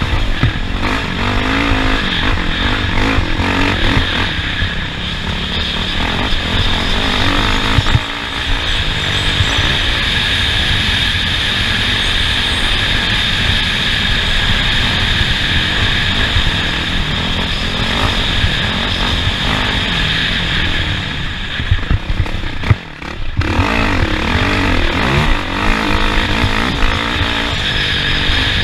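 Off-road racing vehicle's engine running hard over rough terrain, its pitch rising and falling with the throttle, over a constant rush of noise. It drops away sharply for a moment about 23 seconds in, then picks up again.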